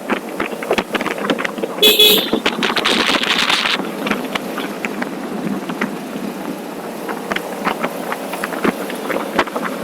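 A vehicle horn toots once, briefly, about two seconds in, over the steady wind and road noise of a motorcycle ride.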